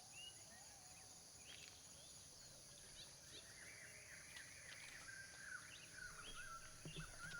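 Faint bird calls, many short chirps and whistles from several birds, over a steady high-pitched drone.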